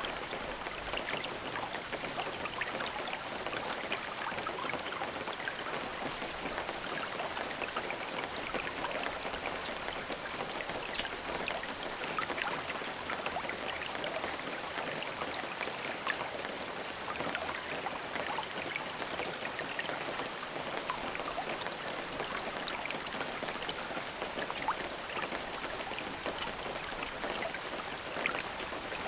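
Steady rain with no thunder: a continuous hiss of rainfall with many small drops pattering on a surface.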